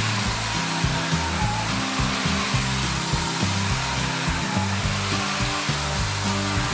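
Narwal S10 Pro cordless wet-dry floor washer running, a steady motor and suction hiss, over background music with a bass line that steps between notes.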